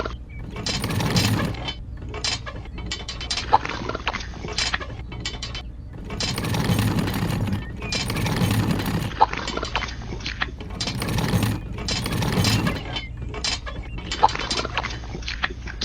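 Mechanical clicking and rattling, with louder bursts about a second, six seconds and eleven seconds in, over a steady low hum.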